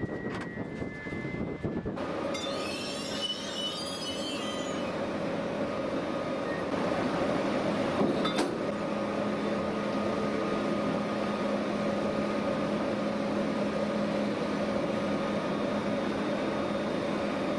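Train sound from an electric locomotive: a steady hum and rumble with held tones throughout. Light clattering comes in the first two seconds, a high wavering squeal of rail wheels or brakes runs from about two to five seconds in, and a single sharp clank comes about eight seconds in.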